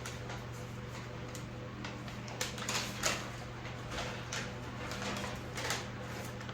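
Two electric table fans, an antique Manning Bowman and a replica, running side by side on low speed with a steady motor hum. From about two and a half seconds in, a string of irregular clicks and rustles sounds over the hum.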